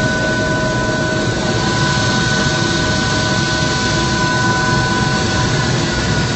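Helicopter in flight heard from inside the cabin: a loud, steady engine and rotor noise with several steady whining tones over it.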